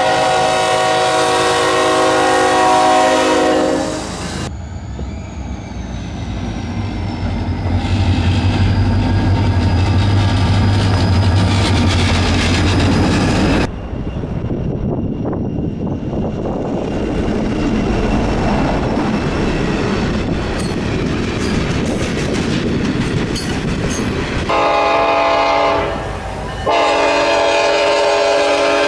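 Ferromex diesel freight locomotives: a multi-note air horn sounds for the first few seconds. Then a locomotive engine hums low and steady, and freight cars rumble past with wheels clacking on the rails. Near the end the horn blows again in two blasts.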